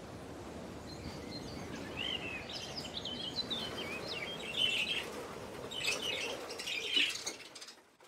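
Birds chirping, with quick runs of high, wavering notes over a soft steady hiss; the chirping fades out near the end.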